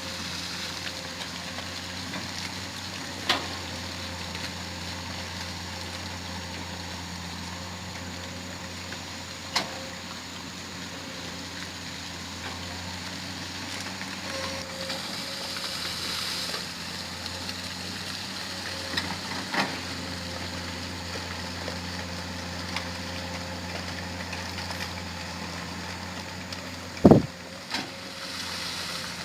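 Excavator diesel engine running steadily, with a few sharp knocks and one heavy thump near the end.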